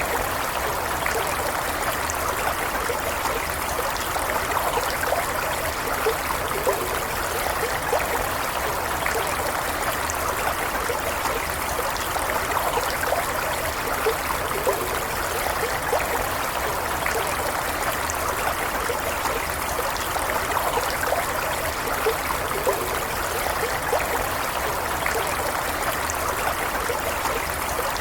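Running stream, water flowing steadily with many small gurgles throughout.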